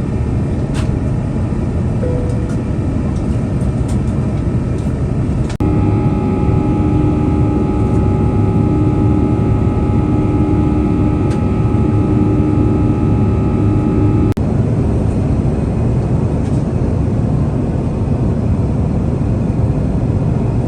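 Steady rumble of an Airbus A350-900 heard from inside the cabin. For about nine seconds in the middle, a steady whine and a pulsing hum ride over it, starting and stopping abruptly.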